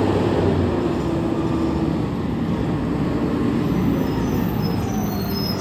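Garbage truck engine running close by, loud and steady with a low hum, cutting in abruptly at the start.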